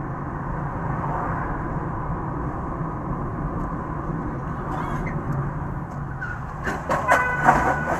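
Car engine and road noise heard inside a moving car, a steady low hum. About seven seconds in there are a few sharp clicks and a brief tonal sound with several steady pitches, the loudest part.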